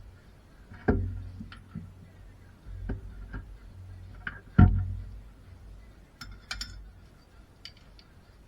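Irregular knocks and clanks of tools and parts being handled during car suspension work. Two heavier thuds come about a second in and near the middle, with lighter knocks between them and a few sharp light clicks later.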